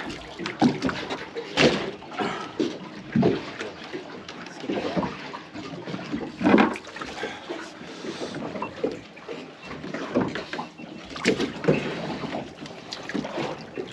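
Water slapping and splashing against the hull of a small open boat, in irregular splashes and knocks every second or so.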